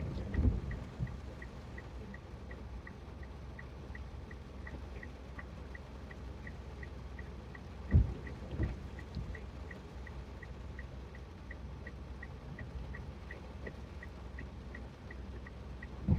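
Monsoon rain and tyre noise heard from inside a moving car, a steady hiss. Pairs of low thumps come at the start and again about eight seconds in, and a faint fast ticking runs underneath, about four ticks a second.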